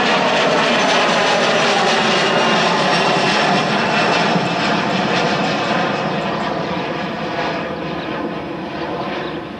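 Airliner engines roaring loudly as an aircraft passes. The noise holds steady, fades gradually over the last few seconds, then cuts off suddenly at the end.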